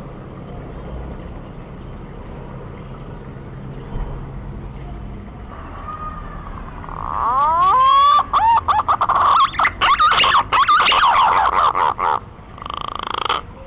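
Male green pigeon (punai) calling to a female: a set of rising whistled glides about seven seconds in builds into a fast run of warbling whistles. The run breaks off about twelve seconds in, followed by one short final phrase.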